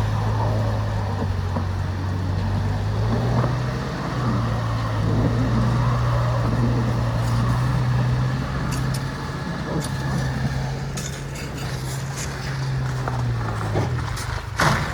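A car engine held at raised revs, stepping up in pitch about three seconds in and easing back near the end, as the car tries to drive out of deep snow. Sharp clicks come later, and a loud knock just before the end.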